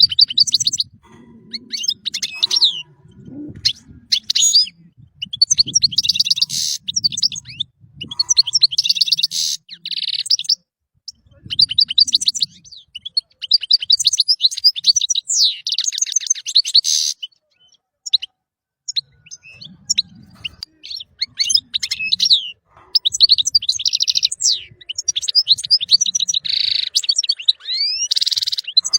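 European goldfinch singing: long runs of rapid, high twittering notes and trills, broken by brief pauses of a second or so.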